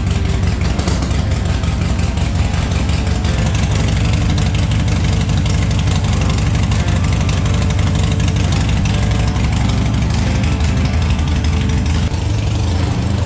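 Motorcycle engine running at a steady idle, with a fast, even low firing pulse and no revving.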